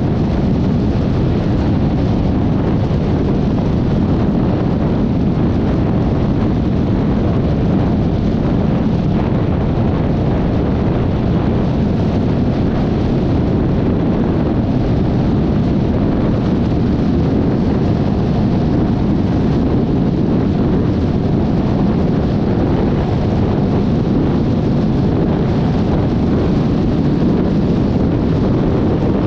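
Steady rush of wind on the microphone of a Yamaha XMAX 300 scooter under way, with the running of the scooter and its road noise underneath.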